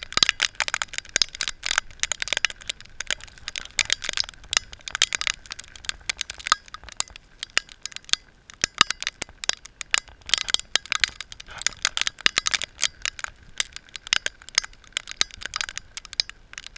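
Freezing rain and ice pellets hitting hard surfaces: a dense, irregular ticking of many small sharp hits, with no let-up.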